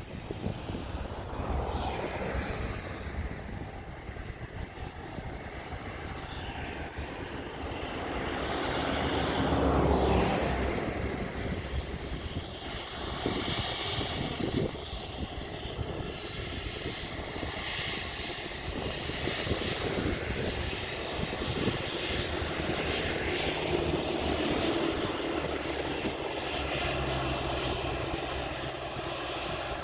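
Jet engines of a Boeing 737-800 airliner running on the ground, a steady noise that swells to its loudest about ten seconds in and then holds fairly even.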